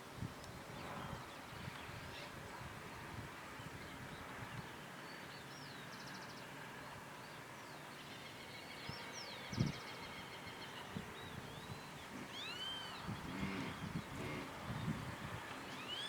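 Birds chirping and calling, short rising-and-falling notes and a couple of quick trills, over a faint steady hiss of outdoor background noise. A brief low thump comes about nine and a half seconds in.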